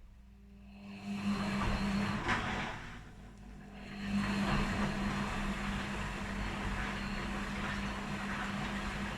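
Washing machines running on a quick wash programme: a steady motor hum under the noise of the turning drum, swelling about a second in and again near four seconds, then holding steady.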